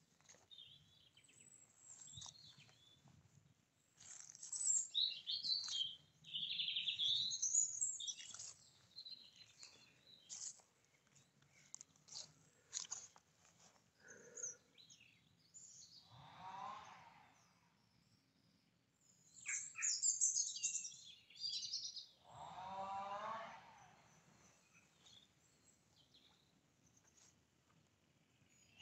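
Songbirds chirping and singing in irregular bursts. About two-thirds of the way through there are two lower, wavering sounds of a second or two each.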